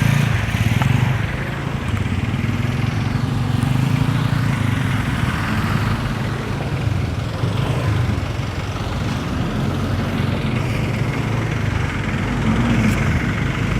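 A vehicle's engine running steadily, with a constant low hum throughout.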